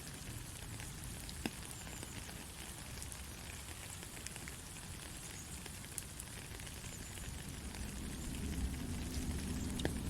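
Soft rain falling steadily, an even hiss with a few separate drop ticks. A low rumble builds up near the end.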